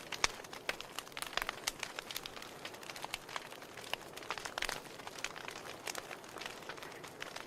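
Wood fire in a fireplace crackling: logs burning with irregular sharp pops and snaps over a soft hiss of flame.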